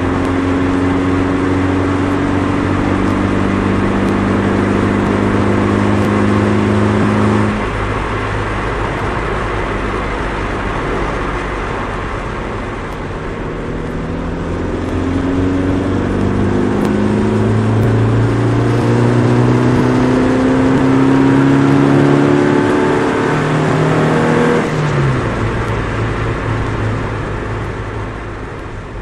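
Nissan Micra 1.3's four-cylinder engine and custom exhaust running under load with a heavy low droning hum. The engine note holds steady at first and drops about a quarter of the way in. Later it climbs with the revs in several stages and falls away sharply near the end.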